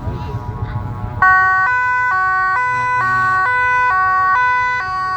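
Low vehicle engine rumble, then about a second in a loud two-tone siren starts, alternating between a high and a low note about every half second.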